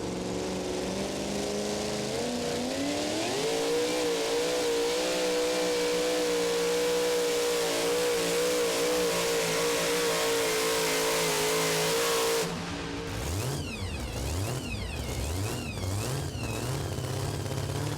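Super modified two-wheel-drive pulling truck's engine at full throttle during a pull: the revs climb a couple of seconds in and hold high and steady, then drop off suddenly about two-thirds of the way through, followed by lower rising-and-falling throttle blips as the driver backs off.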